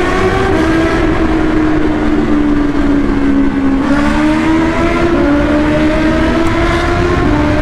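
Honda CBR650R inline-four engine running loud through a Black Widow exhaust with its dB killer removed, held at fairly steady revs while riding. Its note drifts slightly up and down in pitch, with small steps a few times, over a low rush of wind and road noise.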